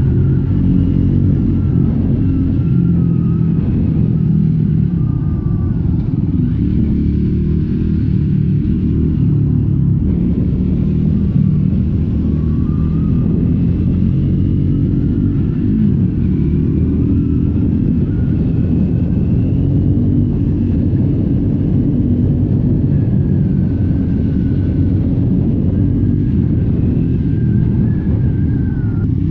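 Triumph Scrambler 400X's single-cylinder engine running under way through its stock exhaust. The engine speed rises and falls gently over a constant low rumble, with no hard revving.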